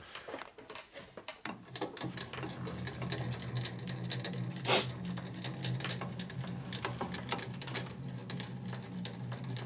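Metal lathe starting up about a second and a half in and running steadily in reverse, its motor humming under a rapid ticking and clatter from the gear train, with a louder click near the middle.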